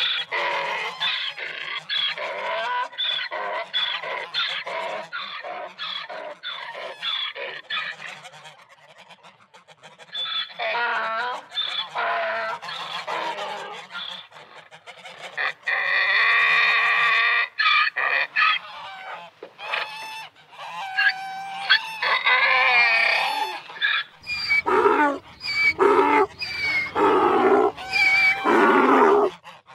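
Domestic waterfowl calling: many short calls in quick succession, one longer held call about halfway, and louder calls near the end.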